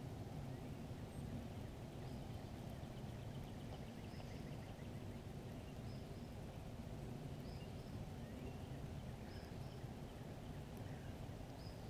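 Faint birdsong: short high chirps about once a second, with a brief rapid trill about three seconds in, over a steady low outdoor background rumble.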